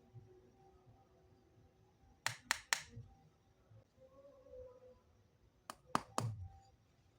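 Small plastic toy kitchen pieces clicking and tapping as they are handled: a quick run of three sharp clicks about two and a half seconds in, and another three near six seconds in.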